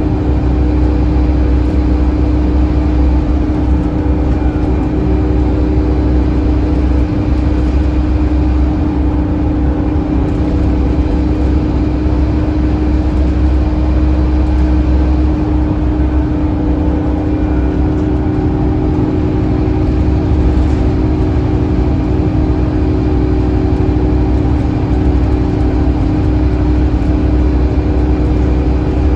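Scania N230UD double-decker bus's five-cylinder diesel engine running steadily under way, a constant low drone with a steady hum over it.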